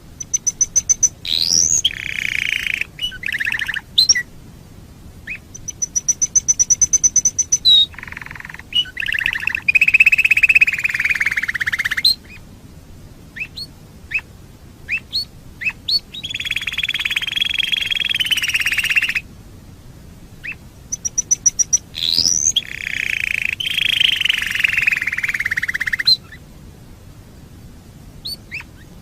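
Domestic canary singing: phrases of a few seconds built from fast runs of repeated high notes, rising sweeps and long rolling trills, with short pauses between phrases.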